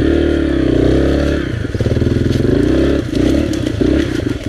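Dirt bike engine being ridden hard, its revs rising and falling several times, with some clatter from the bike.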